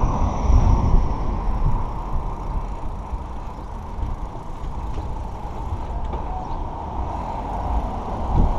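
Wind buffeting the microphone over rolling noise while riding a bicycle, a rough rumble that rises and falls.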